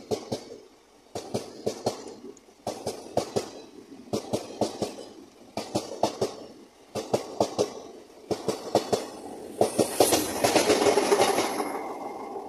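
Avadh Express passenger coaches passing at speed, their wheels clattering over rail joints in quick groups of clicks that come about every second and a bit. About ten seconds in, a louder rushing noise with a high hiss swells up as the rear of the train goes by, then begins to fade.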